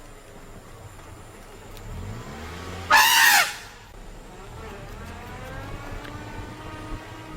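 A wild elephant trumpets once, a loud blast under a second long about three seconds in, its pitch arching up and down, with a low rumble just before it.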